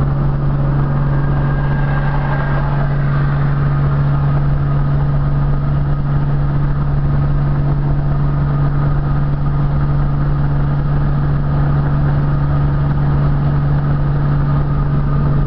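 1960 Studebaker Champ pickup driving at steady highway speed: a constant low engine drone with road noise.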